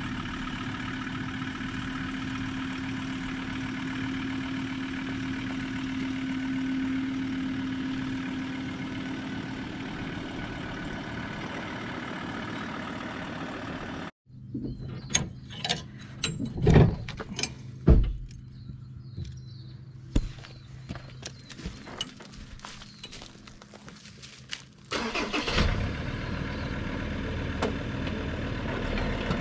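A 4x4's engine running steadily at low revs, cutting off abruptly about halfway through. Then several sharp clunks and knocks, the two loudest about a second apart, before an engine runs again for the last few seconds.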